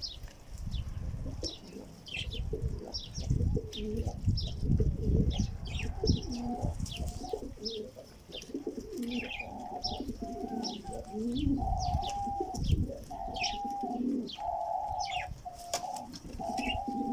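Kept pigeons cooing in repeated drawn-out phrases, with smaller birds chirping over them. Low thuds and rustling come in the first half, and the cooing carries the second half.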